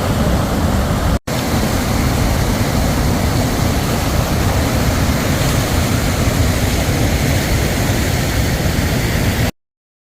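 Tennforsen waterfall's steady roar of falling water, with a brief dropout just over a second in; it cuts off suddenly near the end.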